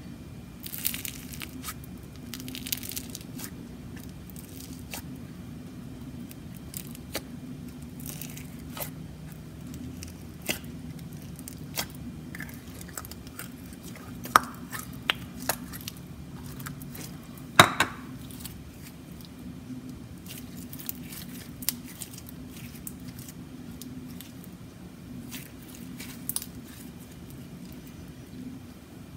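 Jelly slime topped with foam being squished and poked by hand: scattered sticky clicks and crackles, with one sharp louder pop a little past halfway. A faint steady hum sits underneath.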